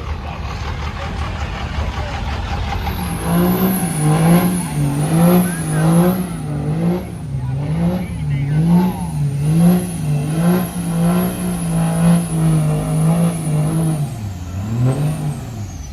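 Diesel truck engine revved up and down about once a second, with a high turbo whistle rising and falling in step. The revs hold steady for a few seconds, then there is one last blip, and the turbo whistle winds down near the end.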